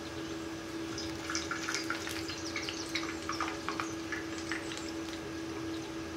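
Potato balls frying in hot ghee: a steady sizzle with scattered crackles and pops, thickest from about one to four seconds in, over a steady low hum.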